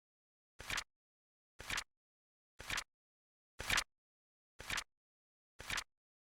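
Flip clock timer sound effect: a short two-part flap, once a second, six in all, with dead silence between. There is no beep.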